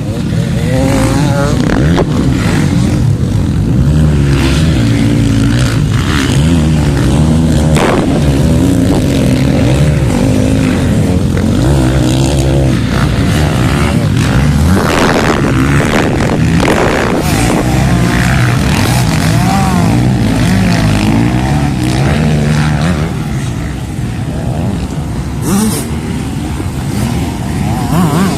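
Several motocross bikes running on the track at once, their engines revving up and falling back over and over, with the pitches overlapping. The sound eases off briefly about 24 seconds in.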